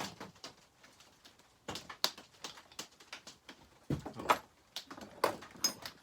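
Metal wrenches clinking and clattering as they are picked through and handled: scattered clicks and knocks, a few with a short metallic ring near the end.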